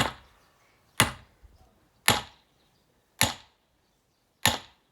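Five hard blows of a heavy splitting tool driven into a firewood log, about one a second, each a sharp crack with a short ring-out; the blade is being worked deeper into the wood to split it.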